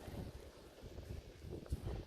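Wind buffeting the microphone in uneven low gusts during a snowstorm.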